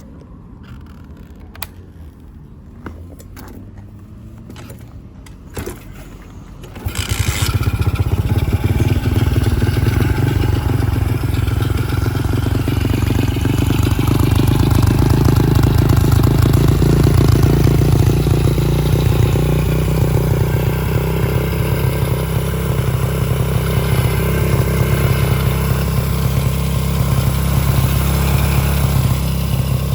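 A few clicks, then about seven seconds in the single-cylinder four-stroke 125cc engine of a Chinese Gorilla-style kit motorcycle starts and runs steadily through its exhaust, swelling slightly in the middle.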